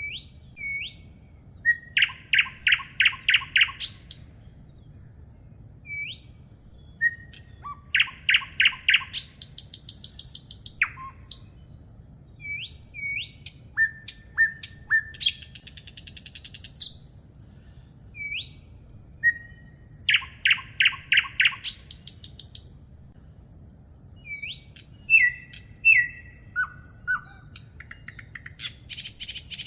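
A songbird singing. Each phrase is a few short rising notes followed by a quick run of repeated notes, and the phrase comes back about every six seconds, with higher chirps in between.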